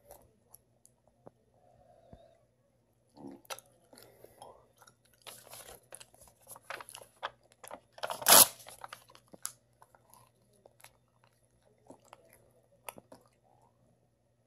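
A person chewing a wad of printed paper, with scattered wet mouth clicks and crackles of the paper, and one much louder noise about eight seconds in.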